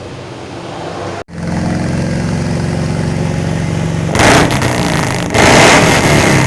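Suzuki Carry engine running through a custom exhaust with a 431 header and muffler: it idles steadily, then is revved hard twice near the end.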